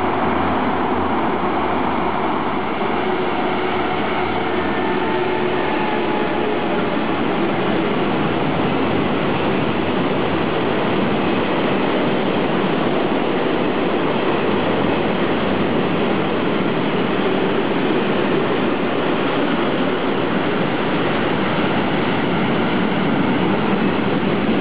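Freight train of double-deck car-carrier wagons loaded with new cars rolling past: a steady, unbroken rumble and rattle of wheels and wagons on the track.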